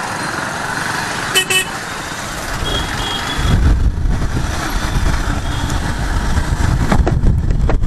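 Riding a Bajaj Pulsar 150 motorcycle on a road with traffic: two short horn toots about a second and a half in, then, from about halfway, a louder, rough low rumble as the ride picks up.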